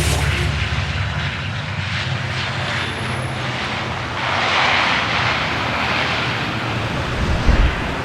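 Jet airliner's engines running with a steady rush and low rumble, swelling louder about halfway through.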